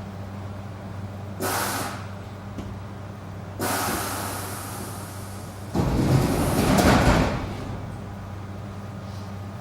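ED4M electric train standing at a platform, its equipment humming steadily. Two bursts of compressed-air hiss are followed, about six seconds in, by a loud rumbling clatter of its pneumatic sliding doors closing.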